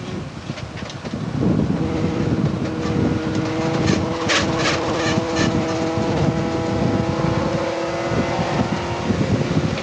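Inside the cockpit of a 1988 Honda CRX Si race car: its four-cylinder engine pulls at steady revs under heavy road and wind noise, its note coming through clearly from about two seconds in. A short run of sharp rattling clicks cuts through around the middle.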